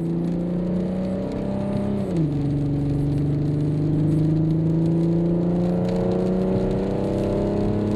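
Porsche Cayenne 957 V6 running through a custom Supercup-style exhaust (muffler bypass pipes with small resonators and secondary cat bypass pipes) while the car accelerates: the engine note rises, drops sharply about two seconds in as it shifts up, then climbs slowly and steadily again.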